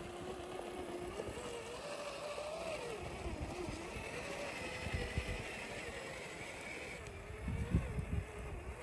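Electric motor and gear whine of a Traxxas TRX4 scale RC crawler truck, its pitch rising and falling with the throttle as it crawls. A few low knocks near the end.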